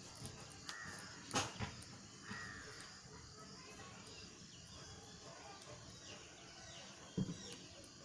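Faint outdoor background with two short, arched bird calls in the first few seconds. A few sharp clicks, the loudest about one and a half seconds in, and a low thump near the end.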